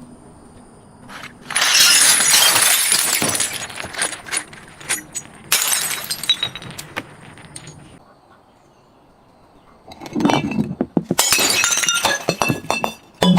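Glass bottles breaking and being crushed: bouts of shattering with shards crackling and clinking, the loudest a couple of seconds in, a lull of about two seconds later on, then more crunching near the end.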